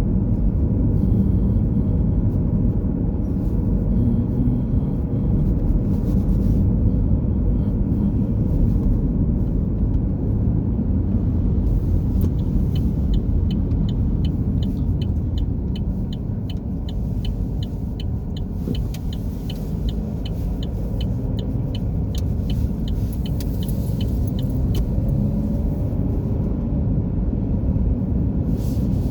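Car driving: a steady low rumble of road and engine noise. For about twelve seconds in the middle, a light regular ticking runs along at about three ticks a second.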